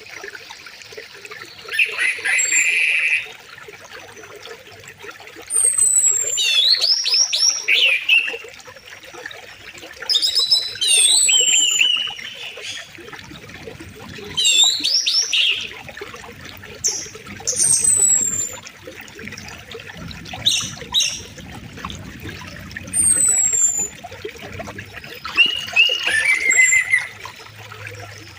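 Songbirds singing in short, repeated bursts of whistles and quick up-and-down trills every few seconds. Beneath them runs the steady, softer rush of a flowing river.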